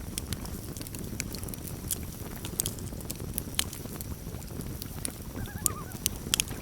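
Campfire burning with a steady low rush and frequent sharp crackles and pops, the loudest near the end. About five and a half seconds in, a short wavering common loon call.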